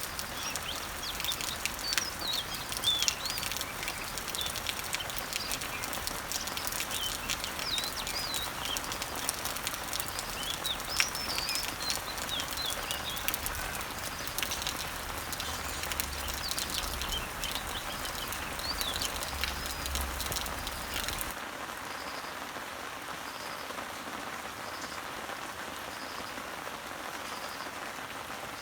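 Rain falling on leaves and trees as a steady hiss with scattered sharp drip taps, while small birds chirp and sing. About two-thirds of the way through, the sound changes abruptly: the birdsong and drip taps stop, leaving a softer, even rain hiss with a faint high pulse about once a second.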